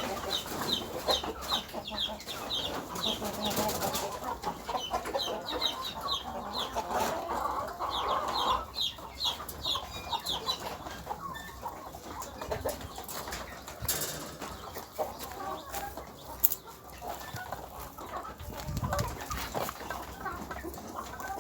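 Chickens clucking, with runs of short high calls repeating about three times a second through the first half.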